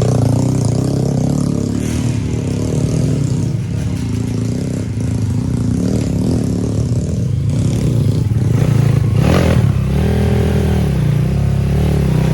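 Trail motorcycle engine running and revving unevenly, its note rising and falling, with a brief harsh surge about nine seconds in.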